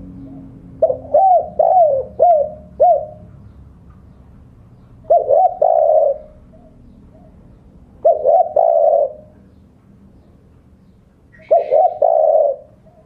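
Spotted dove (tekukur) cooing its rival-challenge call in four repeated phrases of low coos, a few seconds apart; the first phrase is broken into about five separate notes.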